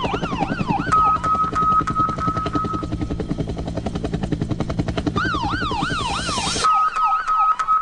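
Siren sample in a jungle track: a wailing up-and-down siren that settles into a steady held tone about a second in, then wails again near the end and holds once more, over a fast, even pulse. The low end drops out with the second held tone.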